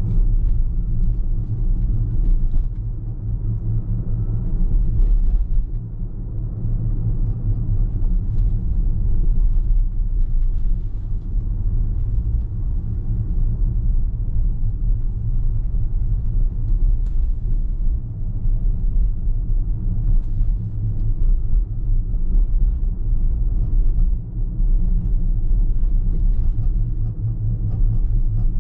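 Steady low rumble of a car driving along the road, road and engine noise with no change in pace, with a few faint light ticks here and there.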